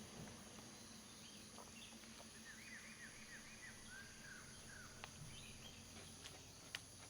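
Faint forest ambience: a steady high insect drone, with a run of short bird chirps about two to four seconds in and a few sharp clicks near the end.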